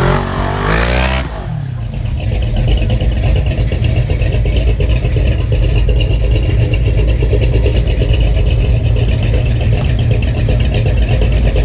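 A car engine winding down in pitch over the first second or so, then running with a loud, steady low rumble.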